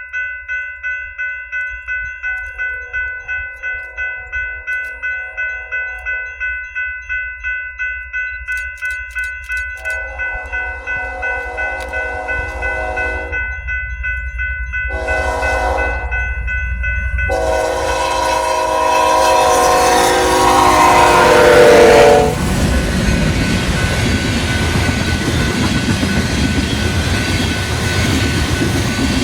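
Grade crossing bell ringing about twice a second while an approaching locomotive sounds its horn in the crossing pattern: long, long, short, then a long blast that grows loud and drops in pitch as the locomotive passes about 22 seconds in. The train's cars then rumble by.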